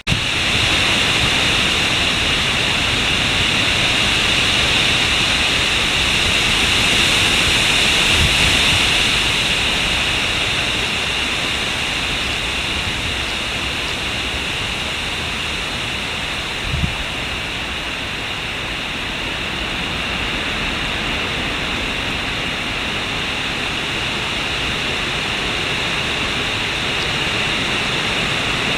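Hurricane wind and driving rain making a steady rushing hiss, which swells with a gust about seven seconds in. A single dull thump comes at about seventeen seconds.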